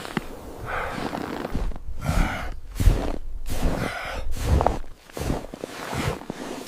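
A person breathing hard in a run of quick, gasping breaths.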